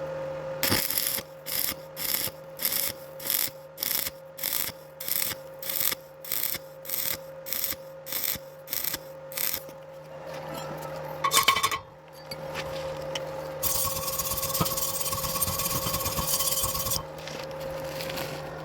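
Stick-welding arc from a 2.5 mm rod at about 75 amps on thin galvanized square tube, crackling and hissing. It comes in short, evenly spaced bursts, roughly two a second, about sixteen of them. Then comes one brief burst, and later a continuous run of about three seconds near the end.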